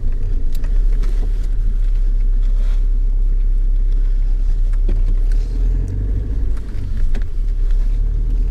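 Steady low rumble of a car's engine and tyres heard from inside the cabin while driving slowly, with a few faint clicks and knocks.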